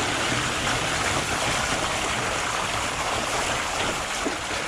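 Steady rushing noise of a fat bike being ridden along a muddy trail: tyres rolling over the ground, with wind on the microphone.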